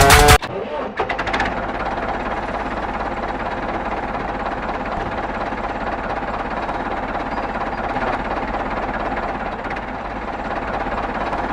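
Small electric motor of a miniature DIY machine running steadily, with a fine mechanical rattle.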